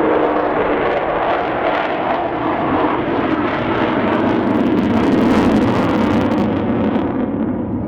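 Avro Vulcan's four Rolls-Royce Olympus turbojets as the bomber passes in its display, a loud jet roar that swells to its peak about five seconds in, then loses its hiss and fades near the end.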